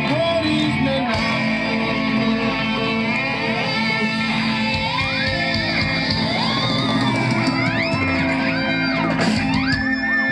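Live band music with guitar: held chords underneath and a lead melody gliding up and down in pitch through the middle and later part.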